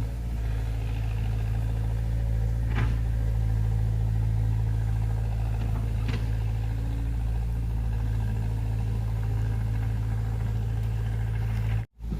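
A motor vehicle's engine running steadily with a low, even rumble, with two short sharp knocks about three and six seconds in.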